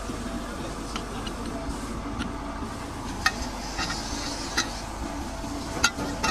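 Scattered sharp clicks and clinks of hand tools on metal parts, about six of them, over a steady workshop hum.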